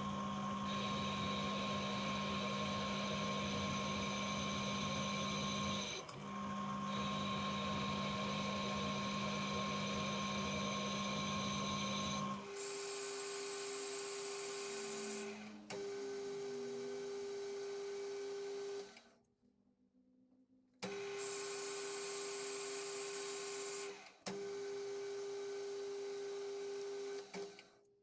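Metal lathe running under power while screw-cutting a thread with the half nuts engaged: a steady motor and gear whine. About halfway through, the pitch of the whine changes. It drops out briefly a few times and stops for about two seconds past the middle.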